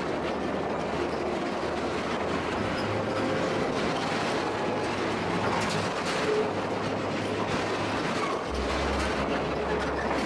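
Skunk Train passenger coaches rolling along the track, heard from beside a coach: a steady rumble and clatter of steel wheels on rails, with a few brief faint squeals as the train rounds a curve. A deeper rumble comes in near the end.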